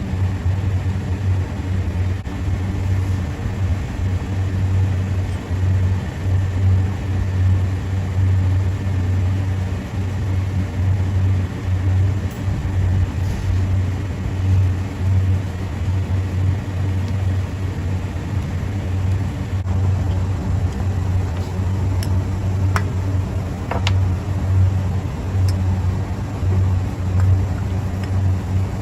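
Steady low machine hum running throughout, with a few faint sharp clicks near the end.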